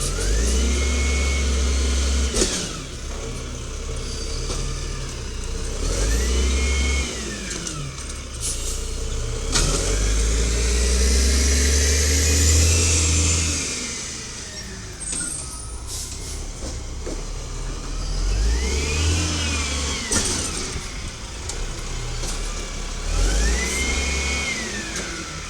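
Automated side-loader garbage truck's engine revving up and dropping back again about five times, each rise and fall lasting a few seconds, with a few sharp knocks in between.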